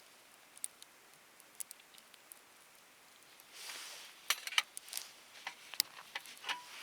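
Wood fire in a fire stand crackling, with sharp pops at irregular intervals. About three and a half seconds in there is a brief hiss, followed by a quick run of pops.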